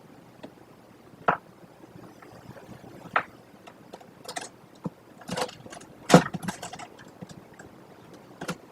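Sharp, irregular knocks and short scrapes inside a wooden kestrel nest box with a gravel floor, over a steady hiss. The loudest knock comes about six seconds in, followed by a short flurry of scratching.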